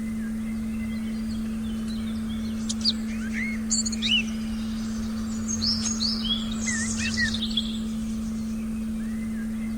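Forest birds chirping in short, quick calls, busiest in the middle of the stretch, over one steady, unchanging low meditation tone.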